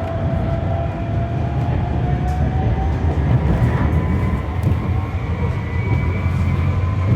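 GT low-floor tram running along the track, heard on board: a steady low rumble with a thin whine from the drive that slowly rises in pitch.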